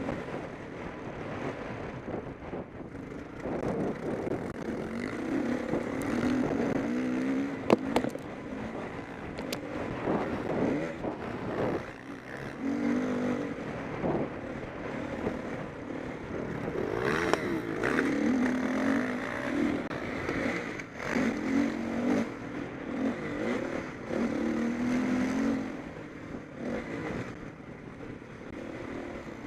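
Motocross bikes racing past, engines revving up and down as riders work the throttle, swelling and fading as each bike comes and goes. There is a sharp click about eight seconds in.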